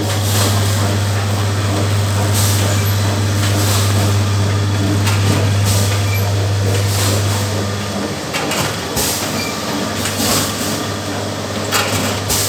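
Cup-water filling and sealing machine running: a steady low hum with a short hissing or clacking stroke every second or two. The hum drops away about two-thirds of the way through while the strokes go on.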